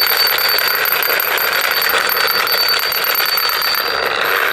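Toy helicopter running with a steady, high-pitched buzzing whir.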